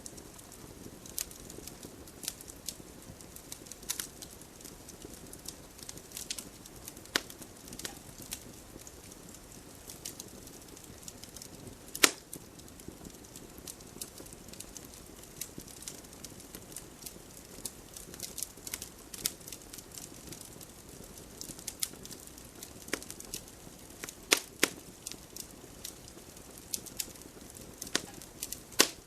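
Fire in a fireplace crackling: irregular sharp pops and snaps over a soft low rush, with one loud pop about twelve seconds in and a cluster of loud snaps near the end.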